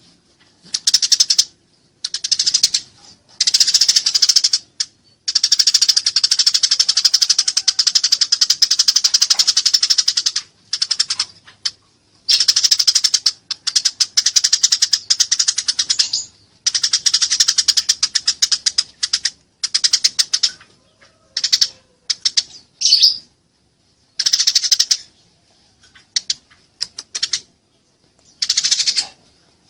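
Eurasian tree sparrow's rapid, high chirping chatter, the excited 'fighting' call, in bouts of one to a few seconds with short silent gaps, the longest run lasting about five seconds.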